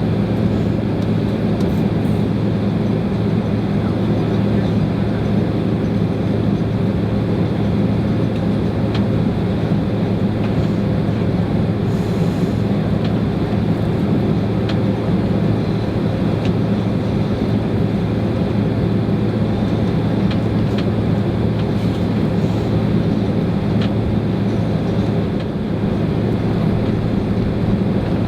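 Steady, loud cabin noise inside a Boeing 767-300 on the ground before takeoff: a constant low hum with an even rush over it.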